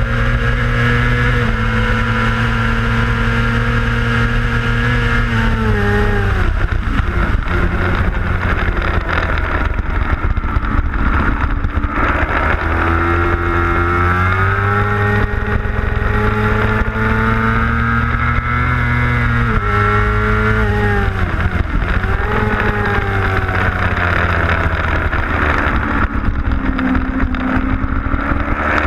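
A 600cc racing motorcycle engine, heard onboard at speed. It holds high revs, falls steeply about four times as the rider brakes and downshifts for corners, and climbs again as he accelerates out.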